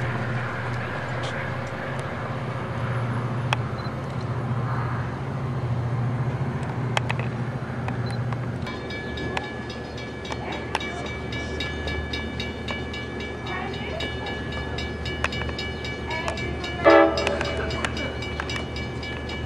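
A passenger train's diesel rumbles steadily as it moves away. After a sudden change, a warning bell rings with steady, evenly spaced strikes as an Amtrak train approaches, and a short train horn blast sounds near the end.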